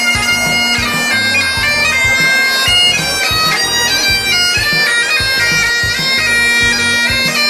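Bagpipes playing a tune of stepping held notes over a steady drone.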